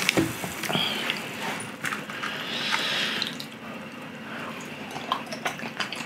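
Wet chewing and smacking of a person eating sauce-coated chicken and noodles, with scattered small clicks.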